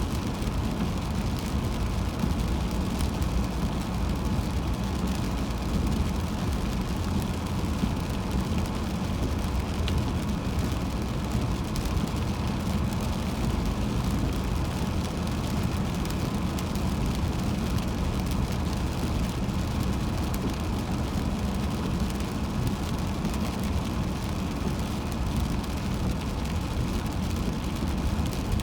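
Steady road and tyre rumble with engine noise from a car driving on the highway, heard from inside the car.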